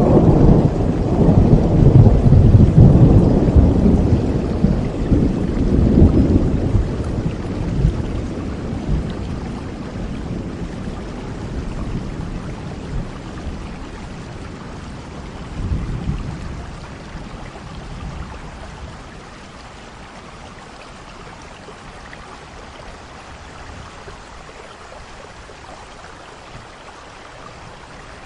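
Thunder rumbling over steady rain: a long, loud peal in the first several seconds that slowly fades, a shorter rumble about halfway through, then just the even hiss of rainfall.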